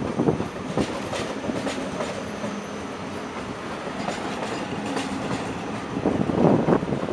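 Deutsche Bahn ICE T (class 411) electric multiple unit rolling past, its wheels rumbling and clicking over rail joints about once or twice a second, with a louder burst of clatter about six seconds in.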